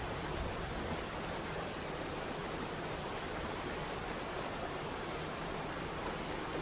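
Waterfall, a steady rushing of falling water with no breaks or changes.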